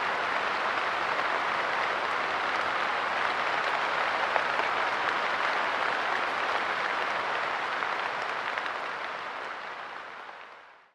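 Steady light rain pattering on a park bench, a dense hiss of fine drop impacts; it fades out over the last two seconds.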